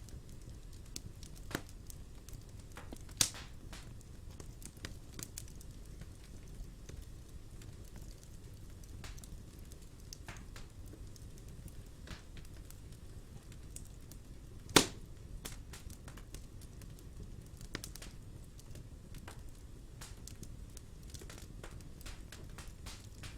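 Fire in a fireplace crackling: irregular sharp snaps and pops over a low, steady rumble, with a louder pop about three seconds in and the loudest about two-thirds of the way through.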